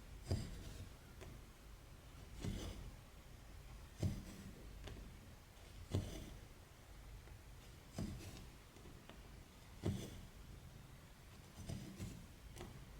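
Cross-stitching on stretched 14-count cloth: a needle punching through the fabric with a soft thump and the thread rasping as it is drawn through, about once every two seconds.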